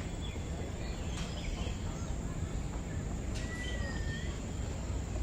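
Birds calling: one long, nearly level whistle about three and a half seconds in and scattered short high chirps, over a steady low rumble and a constant thin high tone.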